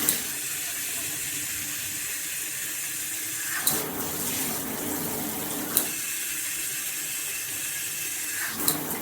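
Water spraying steadily from a Cobbe handheld shower head, a hissing spray. Four short clicks break it, and the spray's sound changes after them, as the spray setting is switched between its functions.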